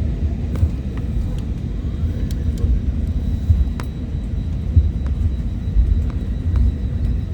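Steady low rumble inside the cabin of an Airbus A320neo on the ground before takeoff, with a faint steady high tone and a few light clicks.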